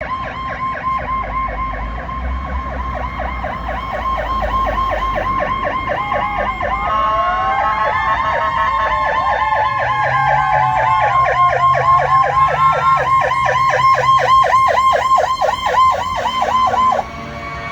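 Fire apparatus siren sounding a fast yelp of about four to five cycles a second, with a second siren wailing slowly up and down over it in the middle and a truck engine rumbling low beneath. The yelp cuts off suddenly near the end.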